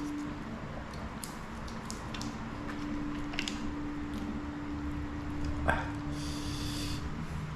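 A person eating: chewing with scattered small clicks, one sharper click about five and a half seconds in, and a short hiss soon after. A steady low hum runs underneath.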